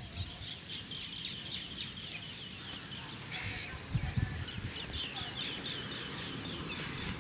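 Birds calling in rapid runs of short, high chirps, twice, over a steady low rumble of wind on the microphone, with a few dull low thumps about four seconds in.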